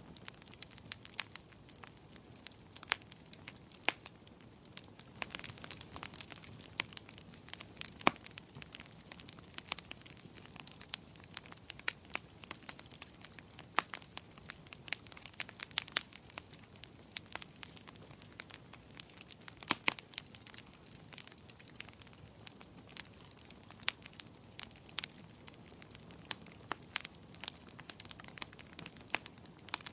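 Wood fire burning in a fireplace: a soft steady hiss with dense, irregular crackling and occasional louder pops and snaps.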